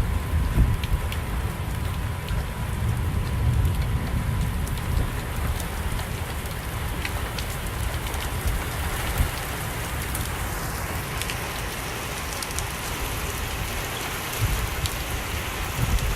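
Heavy rain falling steadily, with scattered drops striking close by. There are low rumbling gusts in the first few seconds, and the hiss of the rain grows stronger about ten seconds in.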